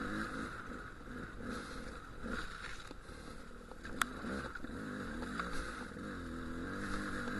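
Dual-sport motorcycle engine running at low revs over rough rock, its pitch wavering up and down with the throttle. A single sharp click about four seconds in.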